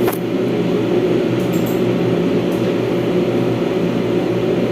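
Steady mechanical hum made of several fixed low tones, with a brief click at the very start.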